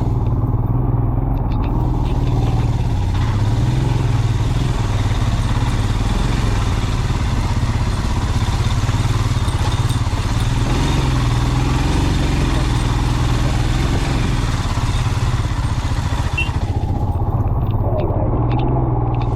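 Motorcycle engine running steadily at low speed on a rough track, with a rushing hiss that fills in about two seconds in and fades near the end.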